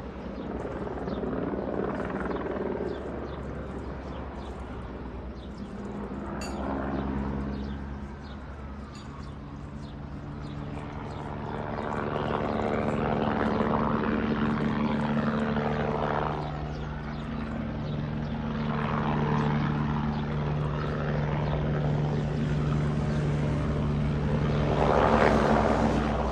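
Helicopter in flight: a steady low rotor and engine drone that grows louder about halfway through, with repeated swells of rushing noise.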